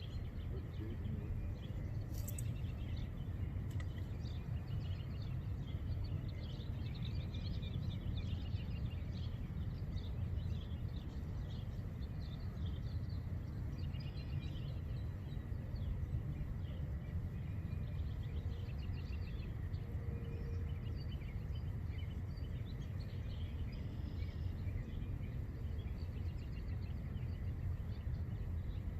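Outdoor ambience: a steady low rumble with small birds chirping and calling on and off throughout, and a brief sharp click about two seconds in.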